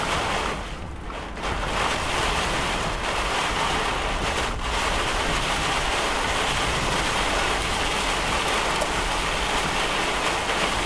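Heavy rain and high wind beating steadily on the vehicle, easing briefly about a second in. It is the downpour of a severe thunderstorm's rear-flank downdraft, as the chaser takes it.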